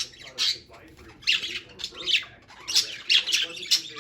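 Pet budgerigars chattering: a string of short, harsh squawks and chirps, coming faster toward the end.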